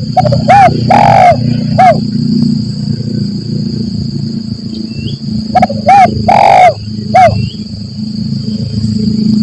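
Spotted dove (tekukur) cooing in two phrases about five seconds apart, each a couple of short coos, one longer rolling coo and a closing short coo. A steady high whine and a low rumble run underneath.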